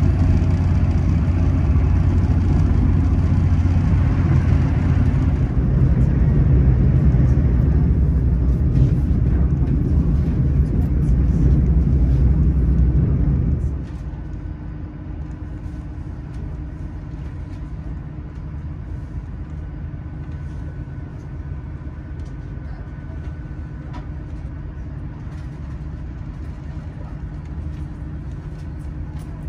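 Onboard sound of a GWR Intercity Express Train heard from a seat by the window: a loud, steady low rumble of running at speed. About halfway through it drops suddenly to a quieter, steady hum with a faint whine as the train slows into Bath Spa station.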